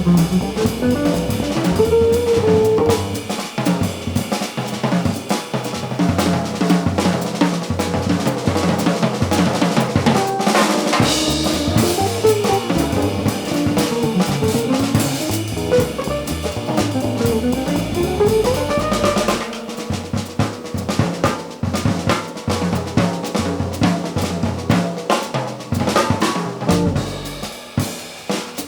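Live jazz band playing: drum kit with a winding melodic line, likely guitar, over it. About two-thirds through, the melody drops away and the drums carry on alone with separate hits.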